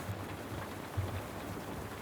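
Steady rain hiss, with a couple of short low thumps, one just after the start and one about a second in.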